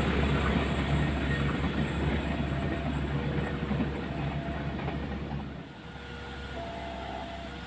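Rumble and wheel clatter of a passing passenger train on the rails, fading steadily as it recedes. Near the end it falls away abruptly to a quieter, steady background.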